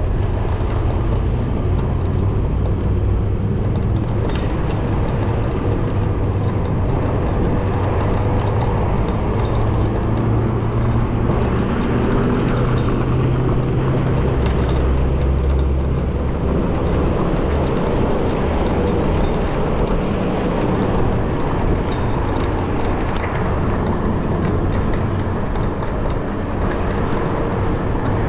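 Steady street traffic and riding noise from a moving electric bicycle, with a heavy low rumble.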